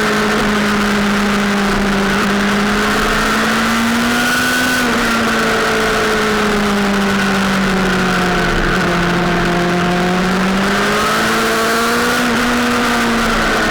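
Sportbike engine running hard and continuously at high revs, its pitch slowly rising and falling, with a steady rush of noise under it.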